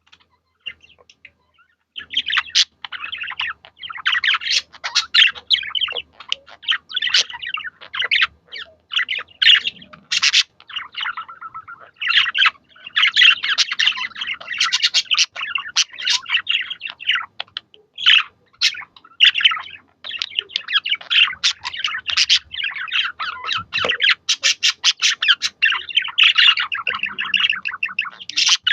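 Budgerigars chattering and warbling, a dense, nearly unbroken stream of rapid high chirps starting about two seconds in, with a few short pauses.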